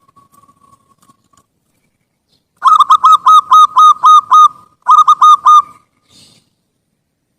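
Zebra dove (perkutut) singing: a faint soft coo, then a loud run of about seven quick staccato coos, followed by a short group of three or four more.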